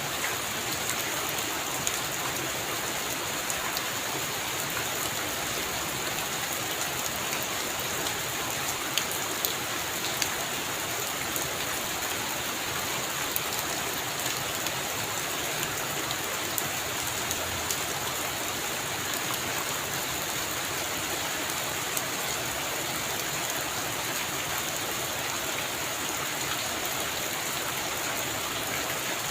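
Heavy rain falling steadily on a roof, a constant hiss with scattered sharp drop hits.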